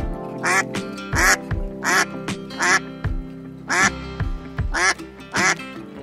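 Domestic waterfowl calling with short nasal quacks, about seven in a row at roughly one a second, over background music with a steady beat.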